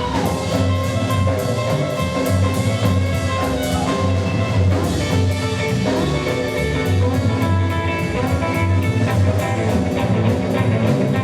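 Live rockabilly band playing an instrumental break with no vocals: electric guitar over a double bass and drum kit keeping a steady, driving beat.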